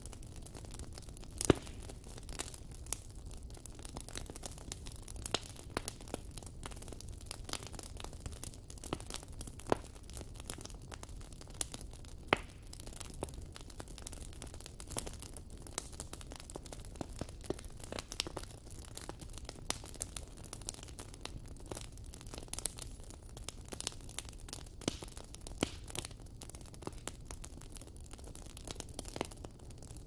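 Wood fire crackling: irregular sharp cracks over a low, steady rumble of burning, the loudest crack about a second and a half in.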